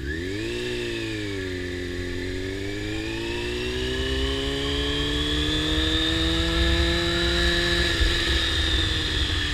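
Honda CBR600RR inline-four engine with a slip-on exhaust, pulling under acceleration. The engine note dips briefly at first, climbs steadily for about five seconds, then falls away near the end.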